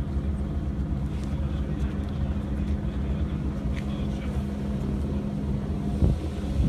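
Freight train locomotive running at the approach to the rail yard: a steady low rumble with a steady hum, and a single knock about six seconds in.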